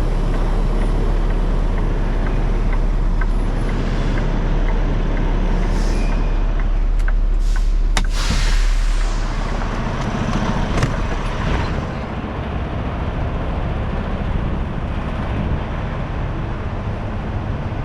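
Semi truck's diesel engine running at low speed while backing a flatbed trailer, with a burst of air hiss about eight seconds in. The engine sound drops a little after about twelve seconds.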